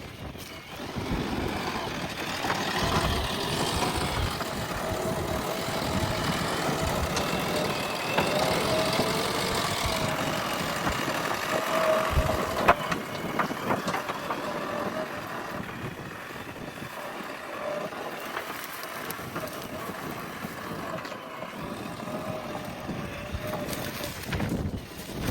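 JCB backhoe loader's diesel engine running under working load, with a wavering tone that rises and falls as the machine works and a sharp knock about halfway through.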